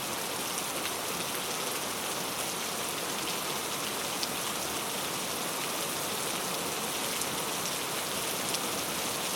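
Steady heavy rain, a dense even hiss with scattered sharp drop ticks.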